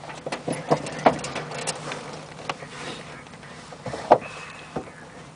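Scattered clicks and knocks in a glider cockpit over a faint steady low hum, with a short high beep about four seconds in.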